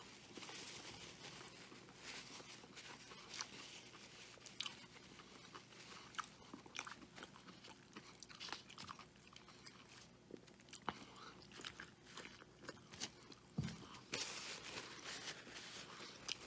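A man chewing a mouthful of bacon cheeseburger close to the microphone, making irregular small clicks and crunches of biting and chewing. A single low thump comes about three seconds before the end.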